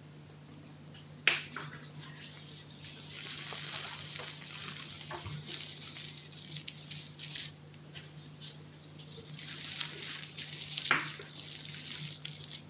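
Chalk being crunched close to the microphone: irregular crisp crackling with a sharp snap about a second in and another near the end, over a faint steady low hum.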